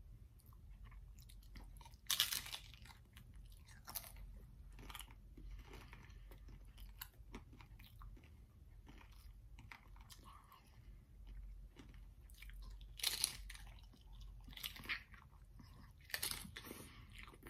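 A crisp tostada shell topped with shredded chicken being bitten and chewed: sharp crunches about two seconds in, again around four to five seconds, and a cluster near the end, with quieter chewing between.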